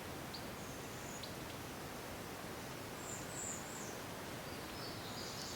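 Outdoor forest ambience: a steady hiss with a few faint, high chirping calls, one about a second in, a louder one around three seconds in, and another near the end, plus a couple of faint ticks.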